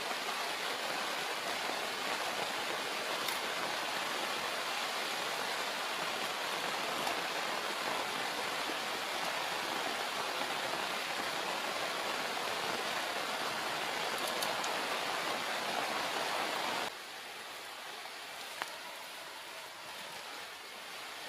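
Heavy rain falling, a steady dense hiss that suddenly becomes quieter about 17 seconds in.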